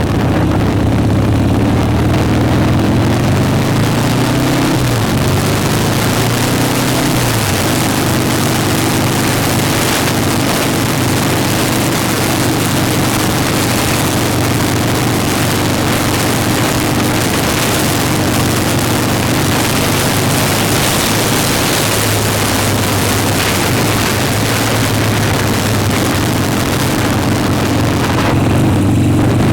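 Motorcycle engine running on the move, with a broad rush of wind noise over it. The engine's pitch shifts about five and seven seconds in, then holds steady.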